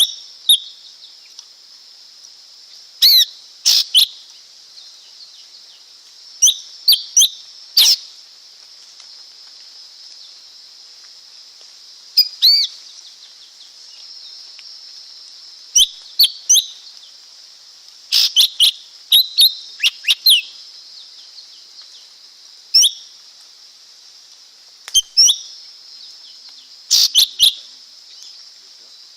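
Lesser green leafbird calling: short, sharp, high notes in quick clusters of two to four, repeated every few seconds, over a steady high-pitched background hiss.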